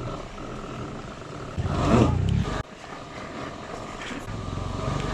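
Yatri P1 electric motorcycle's motor whining steadily while stuck in slippery mud. It surges louder for about a second, about two seconds in, then drops back.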